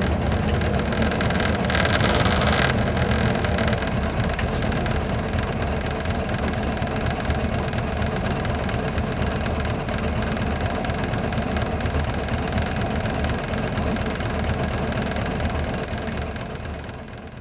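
Isuzu Gala coach's V-type diesel engine running, heard from inside the passenger cabin, with a short burst of hiss about two seconds in. The sound fades down near the end.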